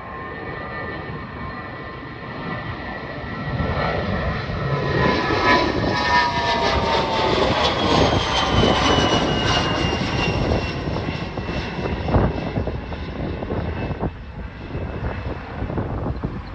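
Airplane taking off and passing by: the engine sound builds, peaks about midway with a whine that falls in pitch as it goes past, then fades.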